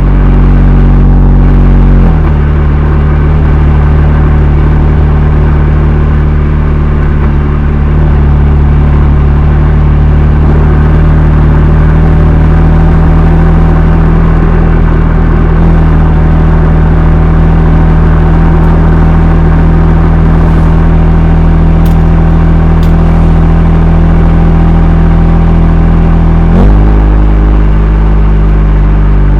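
BMW M2 Competition's twin-turbo inline-six running through its stock exhaust at a steady engine speed. The note drops to a lower, steady pitch about two seconds in and steps back up near the end. The recording is slightly distorted from microphone overload.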